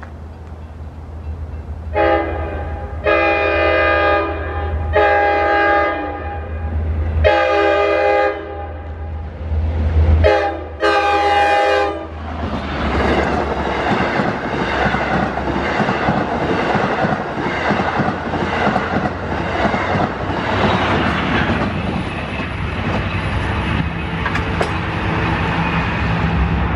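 Commuter train's multi-note horn sounded in a series of blasts, four spaced ones then a short and a long close together. The train then passes, its wheels rumbling and clattering over the rails.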